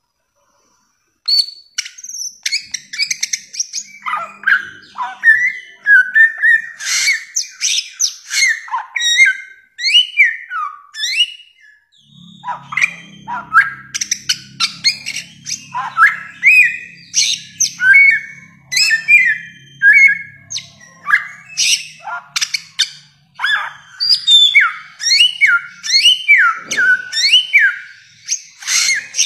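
Bare-throated whistler (samyong) singing a long, varied song of rapid whistles, sharp rising and falling notes and chatter, starting after about a second of silence.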